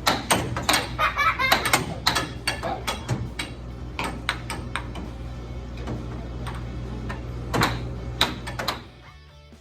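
A quick, irregular run of sharp clicks and knocks over a steady low hum, thinning out after a few seconds; the hum stops near the end.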